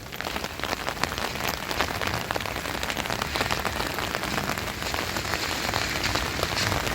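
Steady rain falling, with a dense patter of individual drops striking close by.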